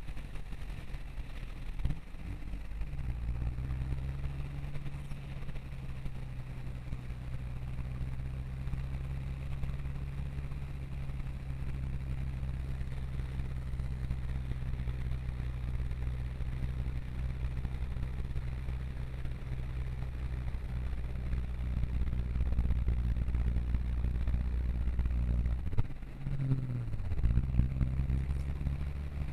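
A vehicle's engine running steadily at low speed, heard from inside the cab while driving through floodwater, with water splashing against the vehicle. Near the end the engine note briefly drops and climbs again.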